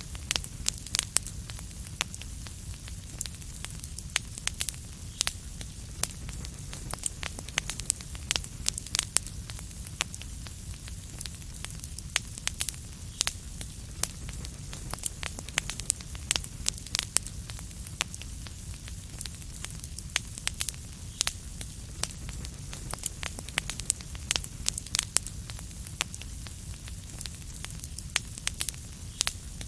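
Wood fire crackling in a fireplace: a steady low rumble of the flames with frequent sharp, irregular pops and crackles.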